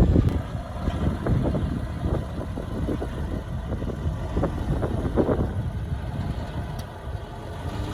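Diesel engine of heavy earthmoving equipment running, a low rumble loudest at the start and easing off through the middle.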